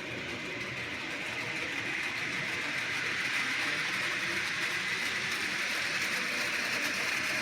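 HO scale model subway train running along the layout's track: a steady whir of the motor and wheels on the rails, slowly getting louder as it comes closer.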